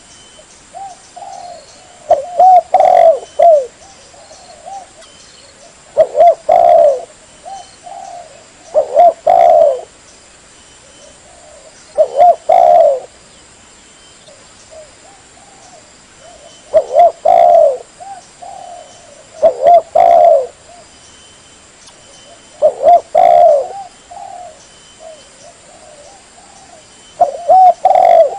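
Spotted dove (tekukur) cooing: loud phrases of several low, curving coo notes, repeating about every three seconds.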